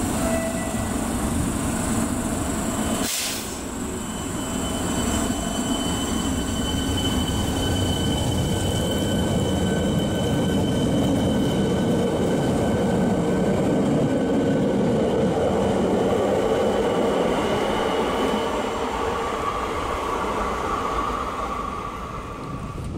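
Electric suburban multiple-unit train running along the platform: a steady rolling rumble of wheels on rail with thin, high, steady whine tones. A sharp click comes about three seconds in, and the rumble grows louder through the middle before easing off near the end.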